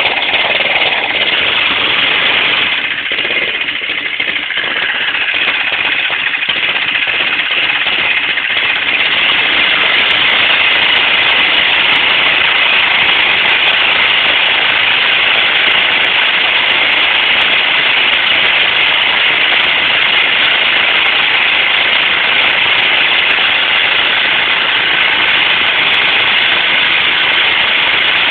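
Mini bike's small engine running hard, held at high revs for a burnout. It dips briefly a few seconds in, then holds steady and loud.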